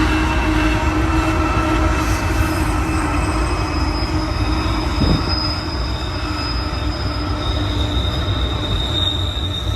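Double-stack intermodal freight train rolling past: a continuous low rumble of wheels on rail, with steady high-pitched wheel squeal held over it.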